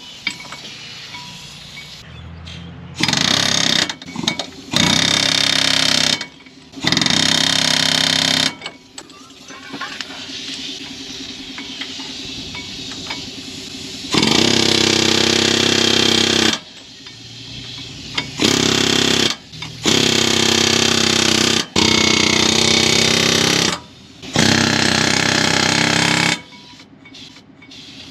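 Air-powered tool hammering in eight bursts of one to two and a half seconds with short pauses between, working on a loose outer tie rod end on a Ford F-150's front steering to get it out.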